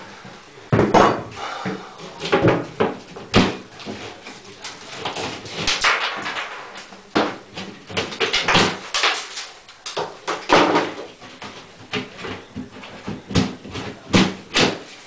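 Moisture-resistant drywall (green board) being broken and pulled off a bathroom wall with a hammer and by hand: irregular sharp knocks mixed with cracking and crumbling.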